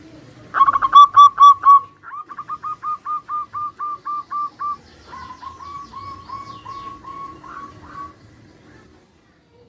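Zebra doves (perkutut) cooing: a loud, close phrase of rapid staccato notes, then a run of about a dozen evenly spaced notes, then a quieter phrase from another bird answering.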